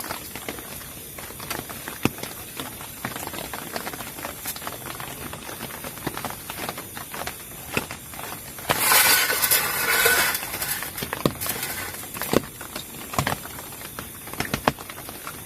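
Raindrops pattering irregularly on a tent. About nine seconds in, a loud hiss runs for about a second and a half.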